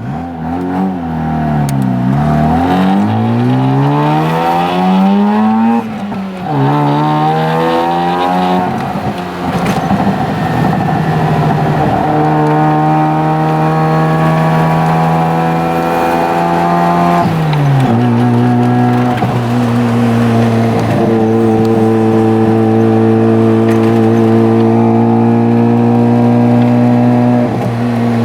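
Naturally aspirated half-bridge-ported rotary engine of a Mazda RX-7 FC3S, its revs falling and climbing twice over the first several seconds, then holding a steady, slowly rising note before dropping sharply and settling into a steady lower note.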